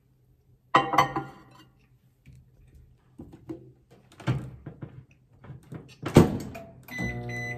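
A ceramic bowl clinks down inside a microwave oven, followed by small knocks and clicks of the door and controls and a loud thunk about six seconds in. Near the end the microwave starts up with a steady hum.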